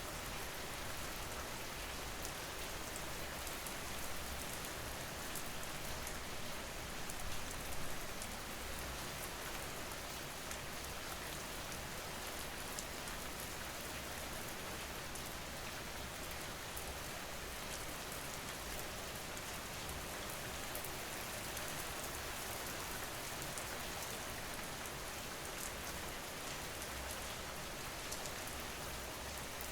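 Steady rain falling: an even, continuous hiss of rain with scattered small drop ticks.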